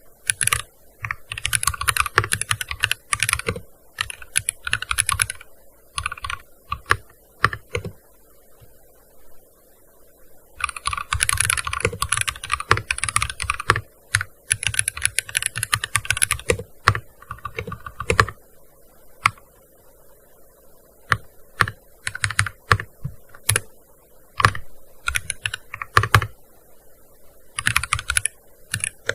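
Typing on a gaming keyboard: fast runs of keystrokes broken by pauses, with two long runs in the first half and sparser, scattered key presses later on.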